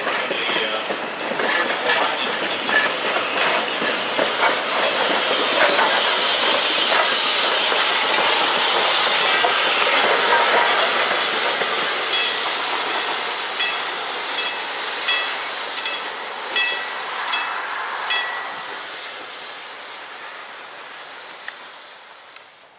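Train rolling past close by: steel wheels on the rails making a loud, steady hiss, with clicks over rail joints and brief squeals. It fades away over the last couple of seconds.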